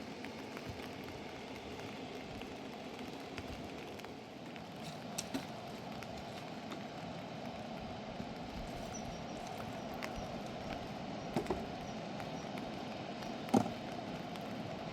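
Steady rushing water noise with a few sharp knocks: a pair about five seconds in, another pair past the middle, and a louder single knock near the end.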